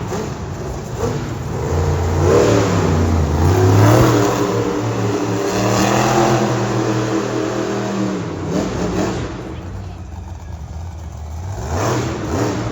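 Monster truck engine revving hard, its pitch climbing and falling several times, loudest in the middle and again near the end.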